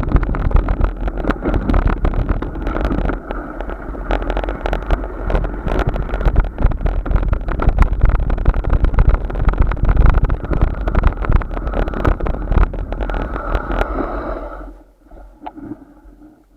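Wind buffeting the microphone while riding a bike, a loud rumbling and crackling noise that drops off sharply about fifteen seconds in.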